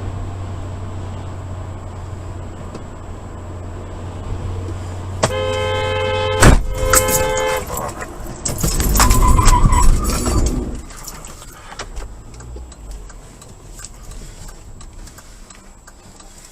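Car horn sounding in two steady tones, cut through by a sharp bang about six and a half seconds in, then a loud crunching burst lasting about two seconds: a road vehicle collision. A steady low hum of road noise runs underneath until the bang.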